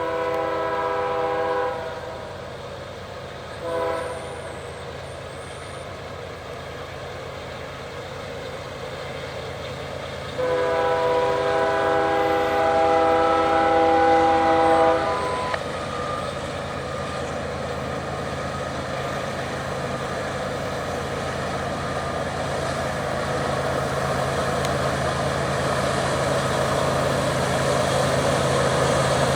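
Diesel locomotive chord horn on an approaching BNSF coal train led by GE ES44AC units, sounding for a level crossing: a long blast, a short one, then a longer blast of about four seconds. After the horn, the locomotives' diesel engines and the train's rumble grow steadily louder as it nears.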